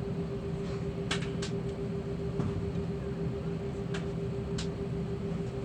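Airliner cabin noise during the takeoff run: a steady engine rush with a constant hum underneath, and a few brief clicks or rattles.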